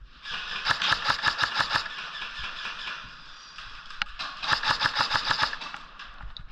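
Airsoft gun firing two fully automatic bursts of rapid clicking shots, about ten a second. Each burst lasts about a second: the first starts just under a second in, the second about four and a half seconds in.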